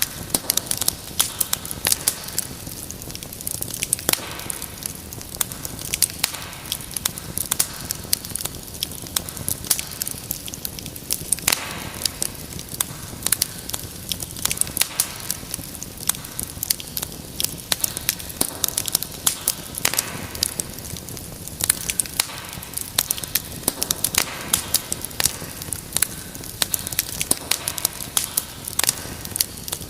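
Wood fire crackling steadily: many irregular sharp pops and snaps over a low hiss of burning.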